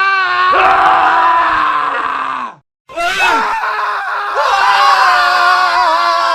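Men screaming in two back-to-back clips, cut apart by a short silence between them a little before the middle. The first scream is one long held cry that falls off at its end; the second is several overlapping voices screaming at once.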